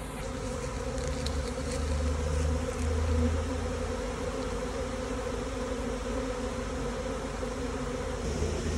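A swarm of honeybees buzzing, a steady dense hum of many bees around the hive box as they are gathered in.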